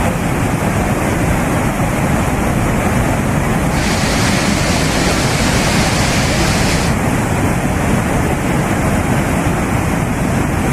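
A river in flood, its floodwater rushing past in a loud, steady torrent.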